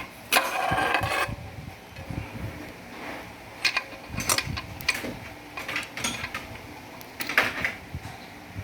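Metal parts of a Ford 5R55S automatic transmission clanking and scraping as it is taken apart by hand: a scraping rattle near the start, then a string of short, sharp metallic knocks and clinks.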